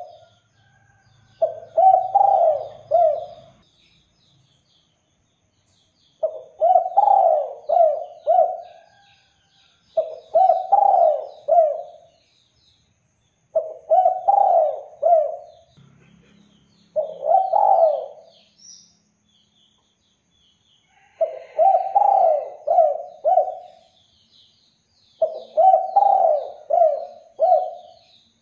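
Spotted dove (derkuku) cooing: seven phrases of three or four low, rounded coo notes, each a couple of seconds long with short pauses between. Faint twittering of small birds runs underneath.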